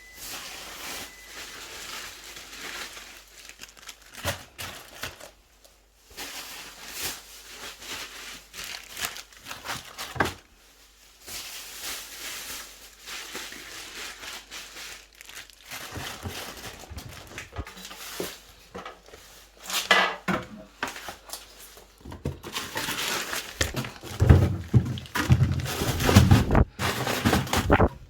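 Plastic packaging crinkling and rustling as packs of raw chicken thighs are handled and put into a plastic freezer storage bin, with irregular knocks. Louder bumps and thuds come near the end.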